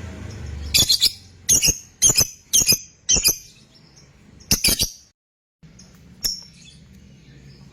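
Lovebird giving short, shrill, squeaky chirps: about six quick calls in the first five seconds, some doubled, then a single fainter one a second or so later.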